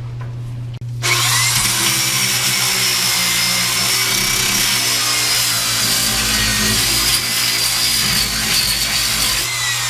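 Disc sander grinding rust off the steel body of a Char-Griller Super Pro charcoal grill, starting about a second in: a loud, steady grinding noise with a high whine.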